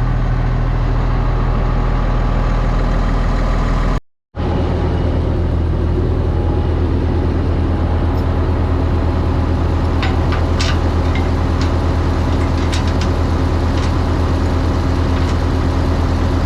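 Komatsu D65 dozer's diesel engine running steadily under way. The sound breaks off for an instant about four seconds in, and short metallic clicks and squeaks come through in the second half.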